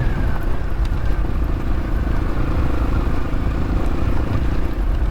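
X-Pro Templar X dirt bike engine running steadily at riding speed, heard through the rider's mic with a dense low rumble, a faint slowly falling whine and a few light clicks.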